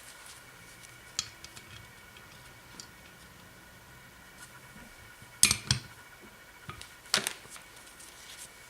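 Small metal parts and tools clicking and clinking as a Zenith 35/40 carburettor is reassembled by hand, with light ticks throughout and two sharper clinks about five and a half and seven seconds in.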